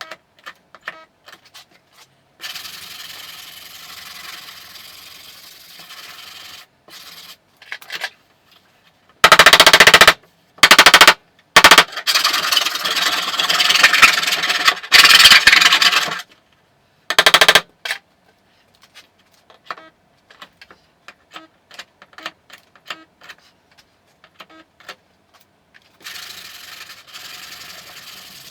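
Car body repair on a sheet-metal hood: many light taps, two stretches of steady hiss, and, in the middle, several very loud harsh rattling bursts of one to two seconds each.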